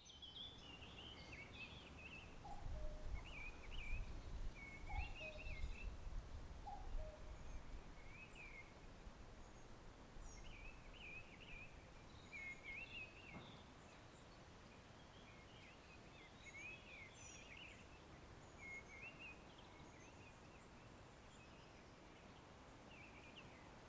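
Garden birds singing, short chirping, warbled phrases repeating throughout, with a few lower two-note calls in the first few seconds. A low rumble runs under the first several seconds.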